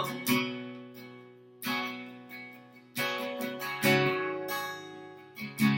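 Acoustic guitar strumming sustained chords, one strum about every second and a bit, each left to ring out, over a held low note.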